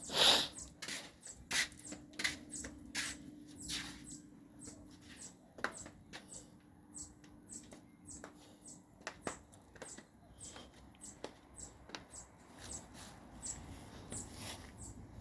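A series of light, sharp clicks and rustles at an uneven pace of about one or two a second, the loudest just at the start, over a faint steady hum.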